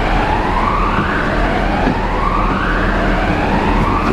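A siren sweeping upward over and over, each rising wail about a second and a quarter long before it drops back and starts again, over steady vehicle and road noise.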